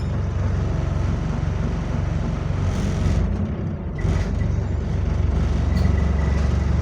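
Bus diesel engine running with a steady low drone, dipping briefly a little over three seconds in and then growing louder. A faint high whine joins about four seconds in.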